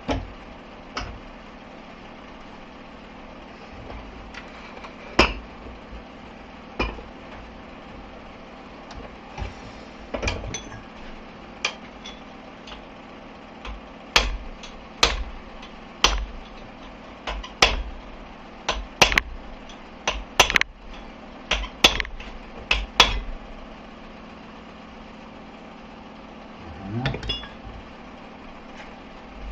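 Hammer blows on steel, tapping parts home on a manual gearbox's output shaft: a few single knocks, then a run of more than a dozen sharp strikes over about ten seconds, over a steady low hum.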